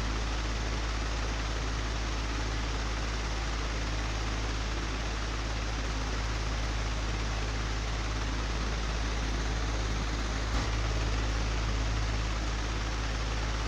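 Old, broken electric fan running steadily: a constant low motor hum under an even rush of air. A single brief click about ten and a half seconds in.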